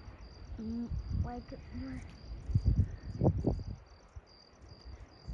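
A cricket chirping steadily in short, evenly spaced high-pitched pulses. A few low rumbling bumps, like wind or handling on the microphone, are the loudest thing in the middle.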